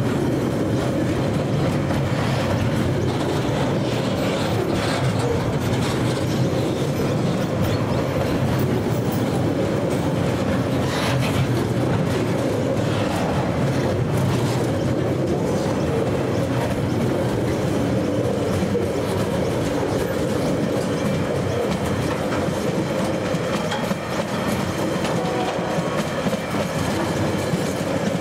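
Freight wagons of a log train rolling past close by, with a steady clatter of steel wheels on the rails.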